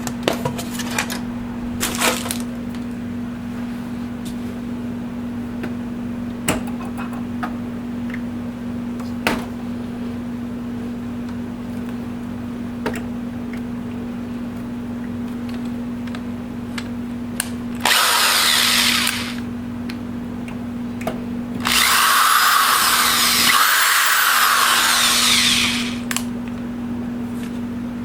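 Power drill or electric screwdriver running in two bursts, a short one and then a longer one of about four seconds, while a printer is being taken apart. Scattered clicks of parts being handled come before it, over a steady low hum.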